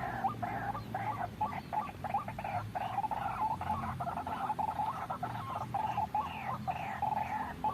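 White-breasted waterhen (ruak-ruak) calling in a rapid, unbroken series of repeated croaking calls, about three a second, played as a bird-trapping lure recording.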